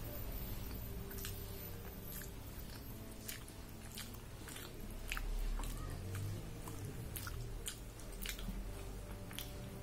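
A person chewing a mouthful of food close to the microphone, with many short, irregular wet clicks and smacks.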